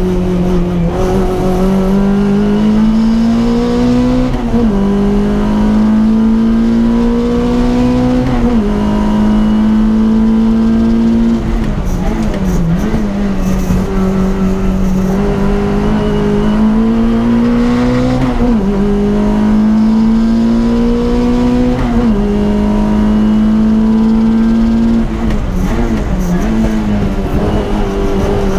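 Peugeot 205 Rallye's engine heard from inside the cockpit, running hard at high revs. Its note climbs slowly, then drops sharply several times at gear changes.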